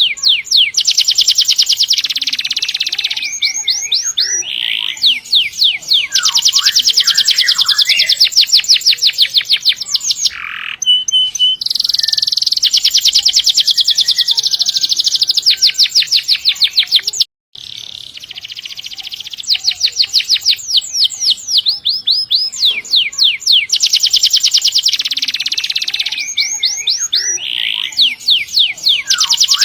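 Domestic canary singing long rolled trills: fast runs of repeated high notes that go on for several seconds each, with short breaks between runs. The sound cuts out for a moment about seventeen seconds in.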